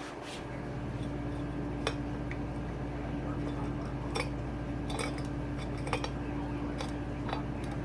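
Light metallic clinks and taps, a few scattered knocks, as a new cylinder is worked down over the piston and rings of a Honda CRF450R engine. A steady low hum comes in just after the start and runs underneath.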